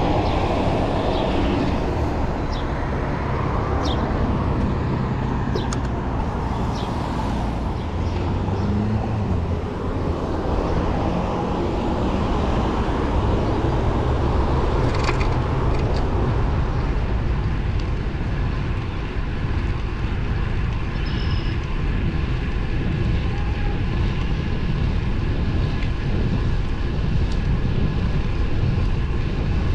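Steady rushing road noise from a bicycle ride: wind on the microphone and tyres on the pavement, with motor traffic nearby.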